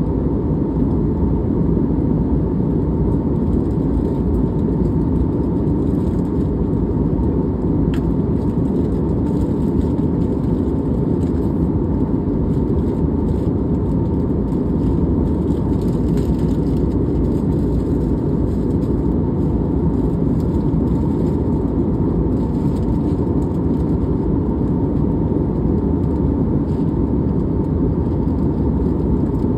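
Jet airliner cabin noise in flight: a steady low rush of engines and airflow with a faint constant hum above it. A single small click about eight seconds in.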